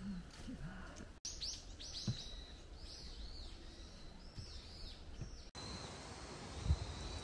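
Small forest birds calling: a run of short, high chirps that sweep downward, many in quick succession from about one second in. Near the end come a couple of soft footsteps on a dirt path.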